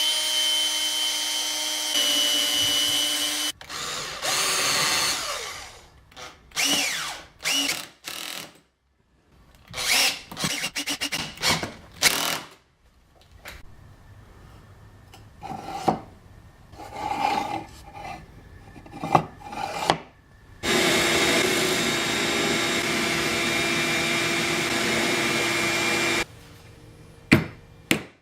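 Electric drill running in several bursts, the longest near the start and again near the end, with shorter runs and knocks on wood between them.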